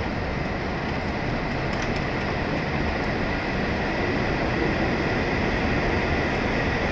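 E7 series Shinkansen train pulling out of the station and gathering speed: a steady rush of running noise with a faint high whine, growing slowly louder.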